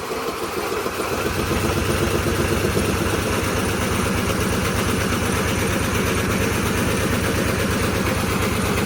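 Riding lawn mower's Briggs & Stratton engine being cranked over steadily on its electric starter, turning with an even fast rhythm but not catching. It won't start, possibly flooded or short of spark.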